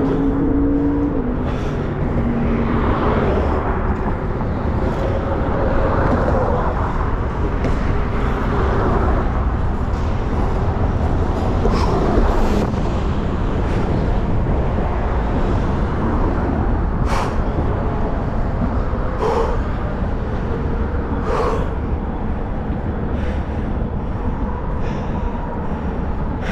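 Steady city street traffic with a constant low rumble. In the first couple of seconds a passing motor vehicle's engine tone rises in pitch. Three short sharp sounds come in the back half.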